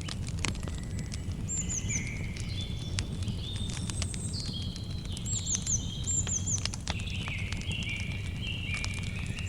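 Campfire crackling, with frequent sharp pops over a low steady rumble, while a bird sings repeated short whistled phrases above it.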